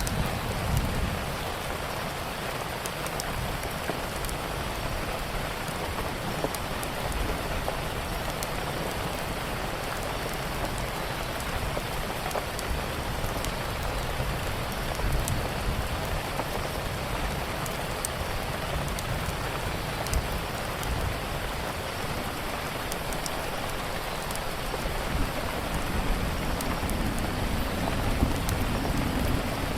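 Steady rain falling, with sharp wood-fire crackles scattered through it and a low rumble that swells near the start and again near the end.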